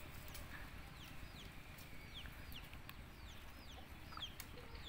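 A bird calling: a faint series of short, high chirps that each fall in pitch, about two a second, with a few sharp clicks and a steady low rumble underneath.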